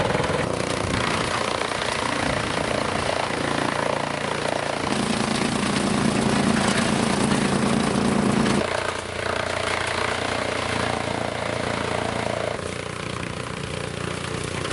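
Tractor engine driving a belt-and-pulley chaff cutter: a steady, loud mechanical running with the cutter turning, its hum changing a few times along the way.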